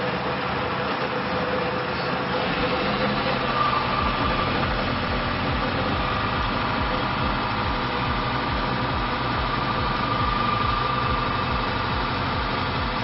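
Friction test machine running, its motor-driven metal shaft rubbing against a loaded metal contact lubricated with additive-treated oil, giving a steady hum with a tone that shifts higher a few seconds in and a regular low pulsing underneath. The running is meant to sound smooth, the sign of reduced metal-to-metal friction.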